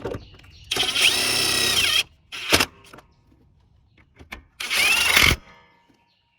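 Cordless power tool running down 10 mm bolts: three runs of its motor whine, a long one of about a second, a short one, then another near the end, the pitch dipping as each bolt tightens.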